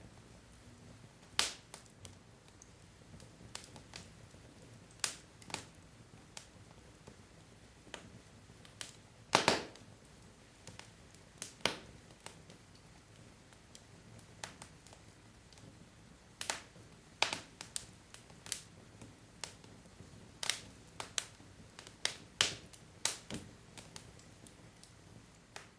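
Wood logs burning in a fireplace, crackling: irregular sharp pops and snaps over a quiet steady background. The pops come more often in the second half, with one of the loudest about nine seconds in.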